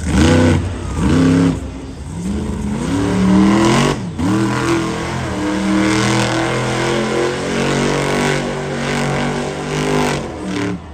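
Monster truck's V8 engine revving hard in short blips, dropping off the throttle about four seconds in, then held at high revs for several seconds before falling away near the end.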